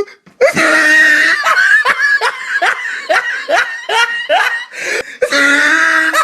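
A person laughing: a drawn-out vocal sound, then a run of short, repeated laughing bursts about two or three a second, and another drawn-out sound near the end.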